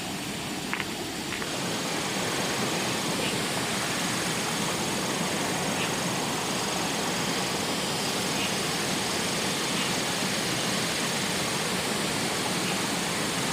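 Steady rushing of water, setting in about a second and a half in after a few light clicks.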